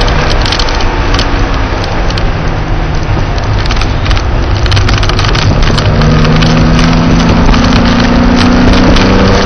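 Porsche engine heard from inside the car at speed on a racetrack. The engine note falls away at first as the throttle comes off, leaving a few seconds of rough wind and road noise. From about six seconds in the engine pulls again, its pitch climbing under acceleration.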